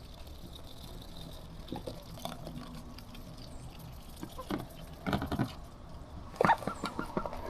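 Water pouring and trickling into a pond being refilled, with a few short, louder sounds about five and six and a half seconds in.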